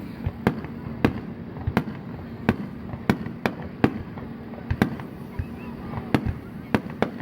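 Fireworks bursting in a quick, irregular run of sharp bangs, about two a second: a rapid-fire starmine barrage.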